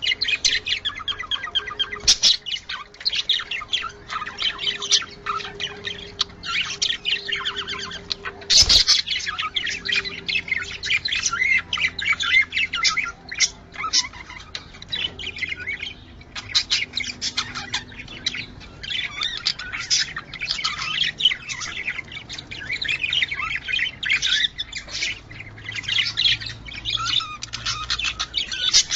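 Budgerigars chattering and warbling without a break, a dense run of fast chirps and squawks, with a single sharp knock about nine seconds in.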